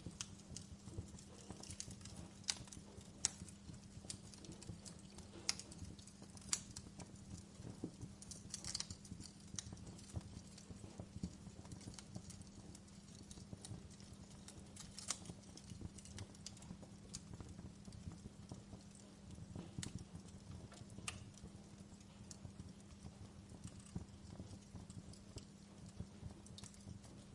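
Wood fire crackling in a fireplace: irregular sharp pops and snaps, the loudest few in the first seven seconds or so, over a low steady hum.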